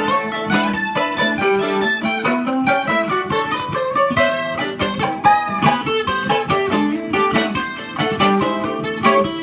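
Instrumental break on acoustic strings: a Carvin 12-string guitar strumming chords while a 1933 Gibson mandolin picks quick runs of short notes.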